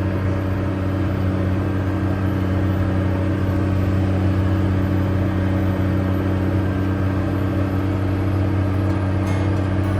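Case 385 tractor's turbo-diesel engine running steadily, a constant low drone with several even hum tones.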